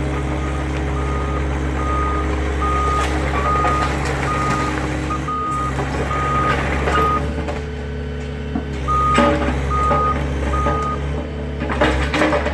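Heavy demolition machine's backup alarm beeping about twice a second over the steady drone of its diesel engine. The beeping stops for a couple of seconds past the middle, then starts again, with some knocking and clatter near the end.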